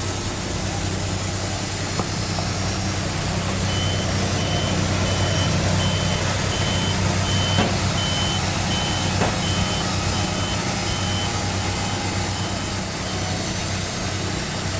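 Engines running steadily, with a vehicle's reversing alarm beeping about twice a second from about four seconds in until near the end. A few sharp knocks are heard.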